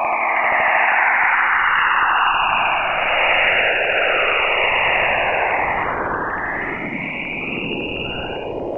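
NASA sonification of space data: an eerie hissing noise whose pitch bands sweep slowly up and down, in overlapping waves.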